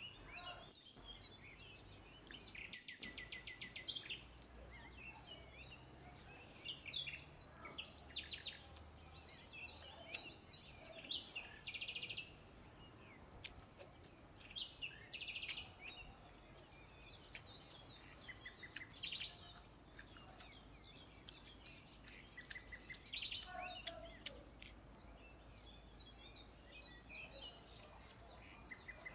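Birds chirping in short, rapid trills, again and again, over a faint steady outdoor background hum.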